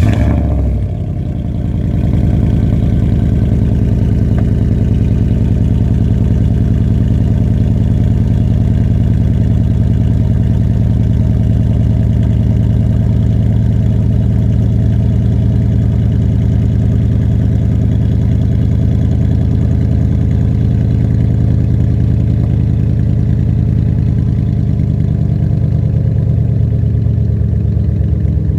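2005 Pontiac Bonneville GXP's 4.6-litre 32-valve Northstar V8, with a muffler-deleted exhaust, catching on a cold start at the very beginning and then running at a loud, steady idle.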